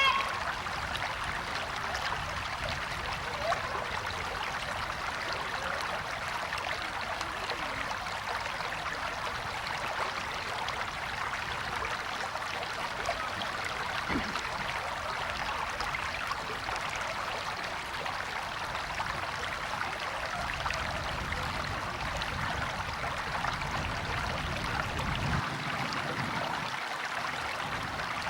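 River or stream water flowing and rippling in a steady, even rush.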